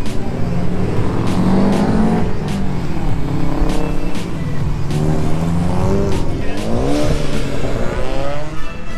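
Several cars' engines revving as they pull away one after another, each climbing in pitch through the gears and fading as the next car comes past.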